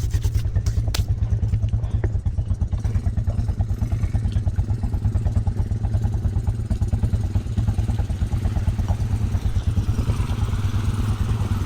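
ATV engine idling steadily close by, with a fast, even pulse. Near the end a second, noisier engine sound grows louder as another ATV comes through.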